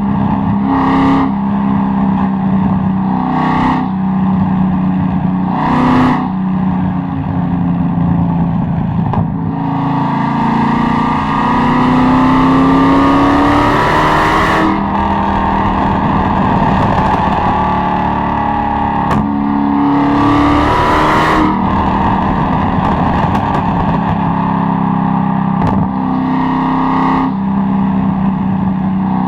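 Chevrolet Corvette C6 Z06's 7.0-litre LS7 V8 being driven hard: three short revs, then two long pulls rising up through the revs, each cut off sharply by a gear change, with a few sharp pops from the exhaust.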